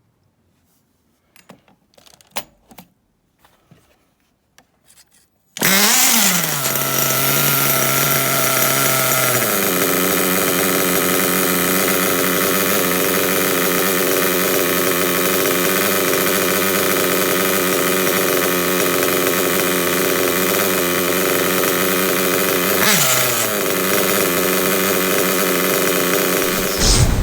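A few clicks and knocks of handling, then a small nitro RC buggy engine is spun up and catches about five and a half seconds in, rising in pitch, and settles into a steady, loud, high-pitched run with a brief change in pitch near the end before cutting off.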